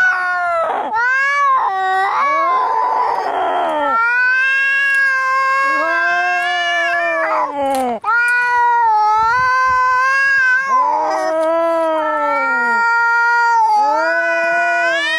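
Cats fighting: long, drawn-out yowls that bend up and down in pitch, one overlapping another, with a harsh hiss about three seconds in.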